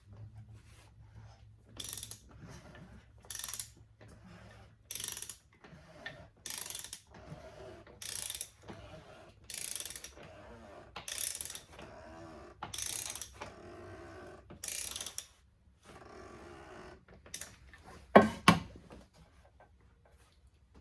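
Ratchet wrench being worked on a fastener under the car: repeated ratcheting strokes, about one every second and a half, with a short clicking rasp on each. A single sharp knock near the end.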